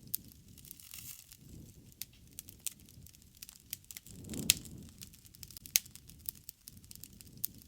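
Wood fire crackling: sharp irregular pops of burning wood, the loudest about four and a half seconds in, over the low rush of the flames.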